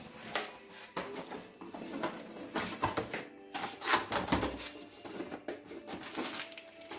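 Hands unpacking a capsule coffee machine from its box: irregular rustles, scrapes and knocks of cardboard and plastic packaging, busiest about four seconds in.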